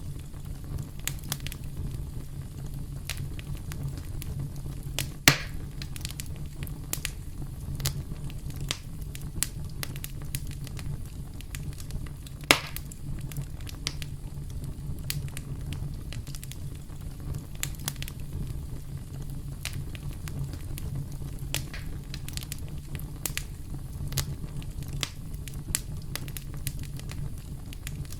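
Campfire crackling: a steady low rush of burning wood with frequent small snaps and pops, and two louder pops about five and twelve seconds in.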